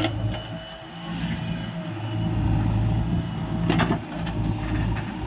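Heavy diesel machinery engine running steadily, growing louder after about a second, with one sharp clunk about two-thirds of the way through.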